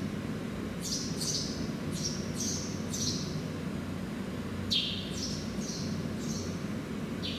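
A small bird calling: a run of short, high chirps that slide downward, about two or three a second, a pause, then a second run near the middle. A steady low background hum lies beneath.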